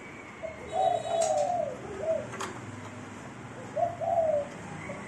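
A bird cooing in two phrases of low, arching notes, the first a run of about five notes, the second of three. A sharp click sounds between them.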